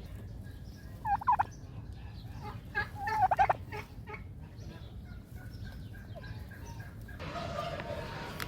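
Domestic turkey gobbling: two short, rattling gobbles about two seconds apart.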